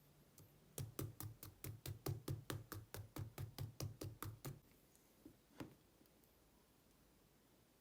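Slime being pressed and squished by hand: a fast, even run of short sticky pops, about five a second, for nearly four seconds, then one more pop about a second later.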